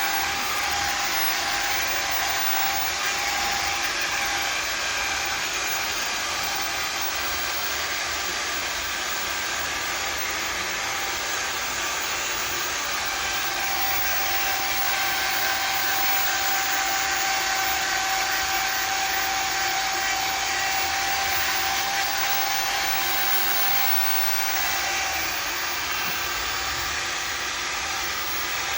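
Handheld electric power tool running steadily, an even whir with a steady whine that drops away about four seconds in and comes back partway through. It is part of the work of restoring a polycarbonate headlight lens.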